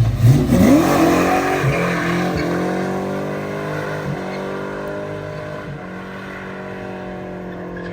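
A muscle car accelerating hard away, its engine note climbing in pitch through the first second, then its exhaust drone fading steadily as it pulls off into the distance.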